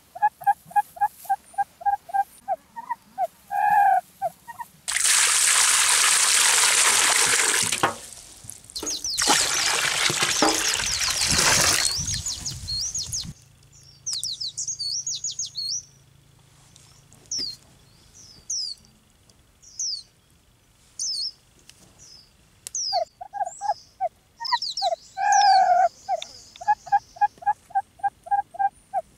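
Water pouring in two loud stretches of a few seconds each, then small birds chirping in short high notes. At the start and again near the end, a bird gives rapid stuttering runs of calls.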